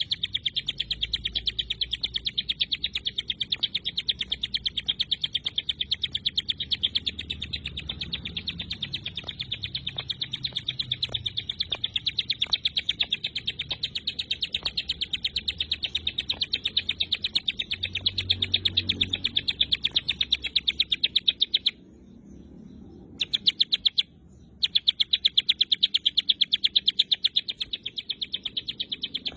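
Ciblek gunung singing its 'tembakan rapat' song: a rapid, unbroken string of sharp, high, chattering notes, stopping briefly twice near the end.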